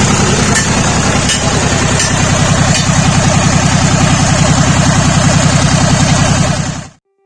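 Lister Petter LPW3 three-cylinder marine diesel engine running steadily, dying away quickly near the end.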